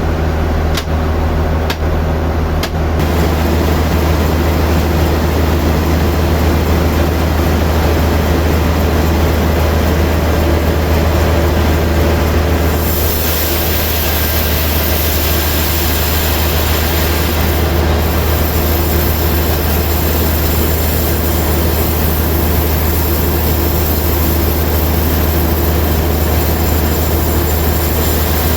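Sawmill saw running steadily with a deep hum and a hiss of noise over it, growing louder about three seconds in and brighter about thirteen seconds in, as the blade works through the log.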